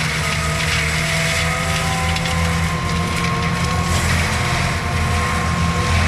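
Skid steer with a forestry mulcher head running steadily under load: a low diesel drone with the high whine of the spinning mulching drum over it, chewing through brush and wood.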